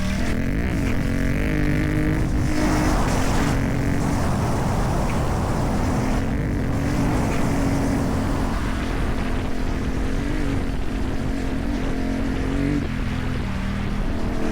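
CFMOTO 450MT parallel-twin motorcycle engine with a modified exhaust, running under way. The engine note rises and falls with the throttle and drops briefly near the start and again near the end, over a rushing wind noise.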